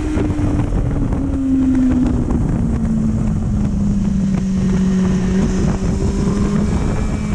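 Motorcycle engine running steadily with heavy wind noise buffeting the camera microphone; the engine note eases down in pitch over the first couple of seconds, then holds steady.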